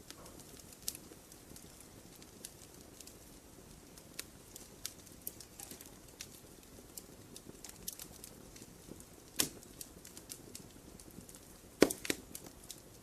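Wood campfire burning, with a low steady rustle of flames and scattered sharp crackles. A louder pop comes about nine seconds in, and the loudest, a quick double pop, near the end.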